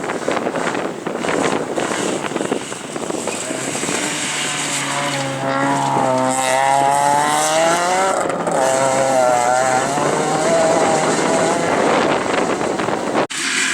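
Rally car engine at speed, passing close by: its note drops in pitch as it goes past, then holds steady as it runs on. Wind noise on the microphone at first, and the sound cuts off abruptly near the end.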